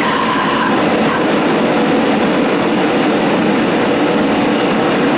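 Two home-built propane forge burners running, a loud, steady rush of burning gas.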